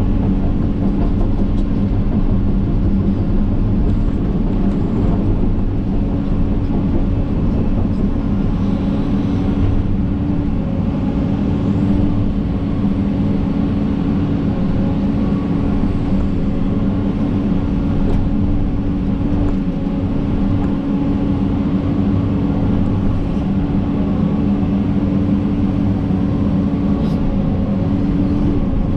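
John Deere 130G excavator's diesel engine running steadily, a constant low rumble with a steady tone over it.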